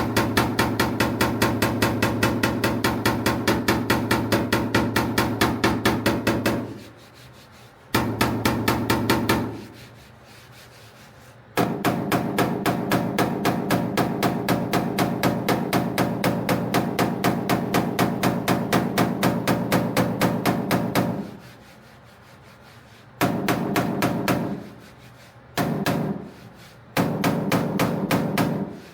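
Steel fender panel being tapped down with a body hammer to level its high spots. Rapid, even taps come about four a second over a steady metallic ring, in runs of several seconds broken by short pauses.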